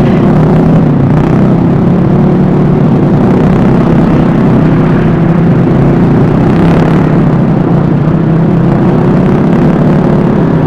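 Vespa S 125 scooter's single-cylinder engine running steadily while riding, with wind rumbling on the microphone.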